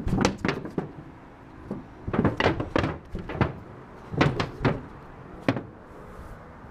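Irregular knocks and thumps in several short clusters, from a person clambering up onto a roof.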